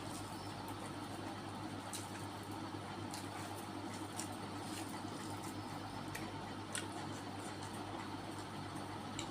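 Wet chewing and mouth sounds of a person eating, with a few faint sharp clicks scattered through, over a steady low hum.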